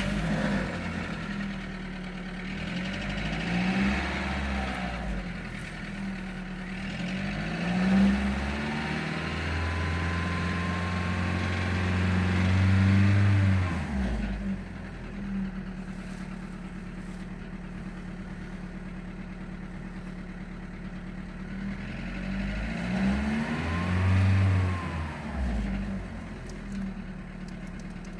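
Audi A2 1.4 BBY four-cylinder petrol engine just after a cold start, idling with about 350,000 km on it and revved several times: short blips about 4 and 8 seconds in, a longer hold at higher revs around the middle, then a steady idle and one more rev near the end.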